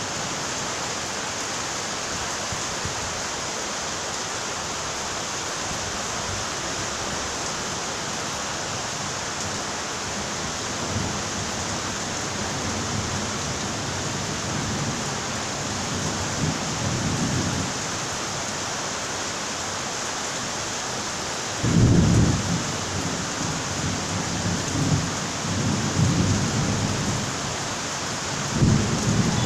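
Steady rain with thunder rolling in the second half: deep rumbles build from about a third of the way in, with the loudest peal about two-thirds through and further rolls near the end.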